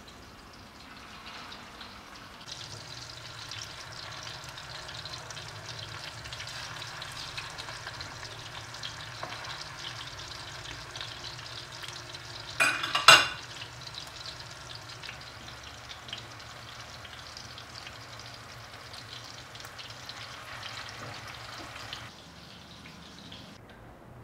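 Beef cutlets sizzling and crackling as they fry in shallow oil in a frying pan. A brief loud clack comes about halfway through, and the sizzle stops near the end.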